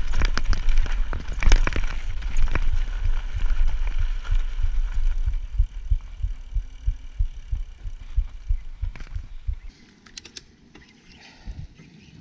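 Mountain bike riding over rough trail: a low wind rumble on the microphone with a run of irregular knocks and rattles from the bumps, which dies away about ten seconds in.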